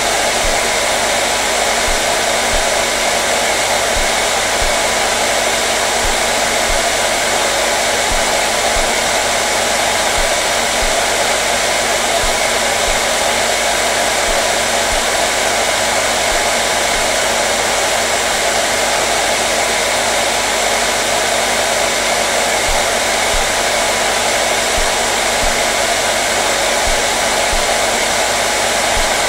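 Hair dryer running continuously at a steady setting, an even blowing hiss with a faint motor hum and no change in pitch or level.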